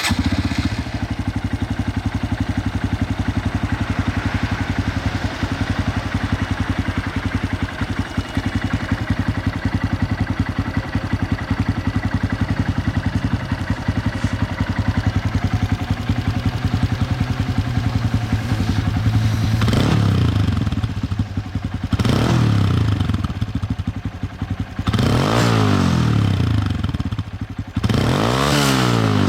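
Honda Grom's 125cc single-cylinder engine idling steadily through its exhaust, then revved four times in quick throttle blips, each rising and falling, over the last ten seconds.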